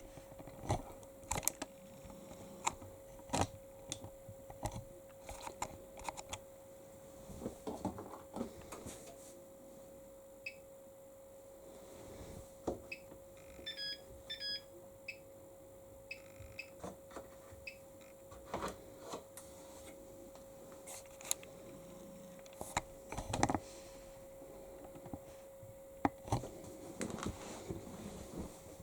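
Bosch Series 6 heat pump tumble dryer control panel being set: repeated clicks of the programme dial and buttons, with a few short electronic beeps about halfway through as options are selected. A faint steady hum runs underneath.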